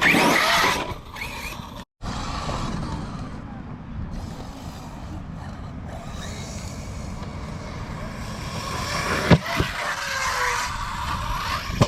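Arrma Notorious 6S RC stunt truck running over rough ground: a steady noisy rumble of tyres and drivetrain, with a sharp knock about nine seconds in. The electric motor's whine rises toward the end.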